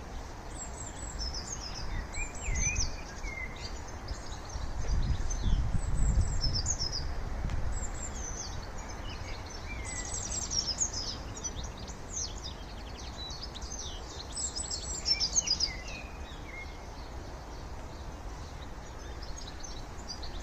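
Several small songbirds singing and chirping, with quick high trills and twitters through most of the stretch, over a low outdoor rumble, likely wind on the microphone, that swells for a few seconds.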